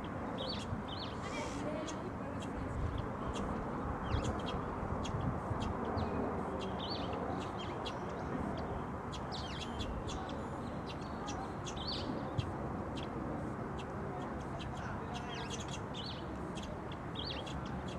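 Small birds chirping in short, scattered calls over a steady low background noise.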